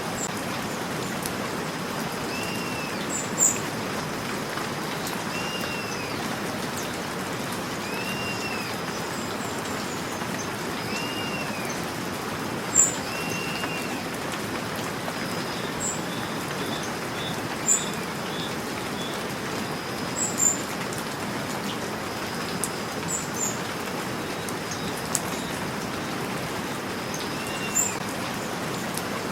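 Steady rain falling, with birds calling over it: a short arched whistle repeats every two or three seconds, and sharp high chirps stand out now and then as the loudest sounds.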